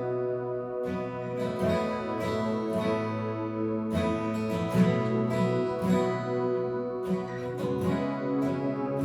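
Instrumental passage of a worship song: an acoustic guitar strummed in a steady rhythm over held chords, with no singing.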